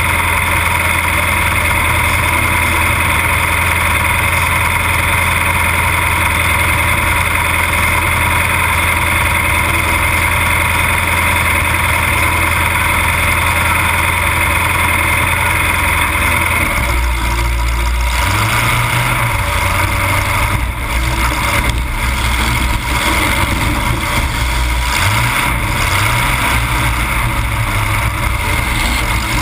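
Demolition derby car engine running loud and close through open exhaust pipes that stand straight up through the hood, idling steadily. About 17 seconds in it starts revving up and down as the car pulls away across the dirt arena.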